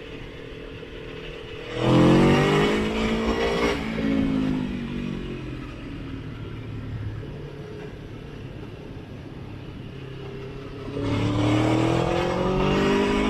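Motorcycle engine on the road: running steadily, then opening up sharply about two seconds in with the pitch climbing, easing off, and accelerating again near the end.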